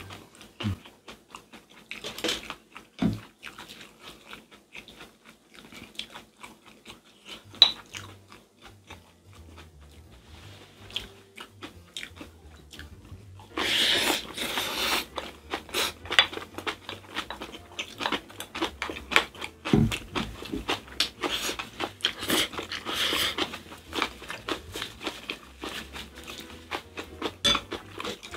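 Close-miked chewing and mouth sounds of people eating spicy stir-fried squid over rice with kimchi, with scattered clicks of chopsticks and spoons against glass bowls. The chewing grows louder and denser about halfway through.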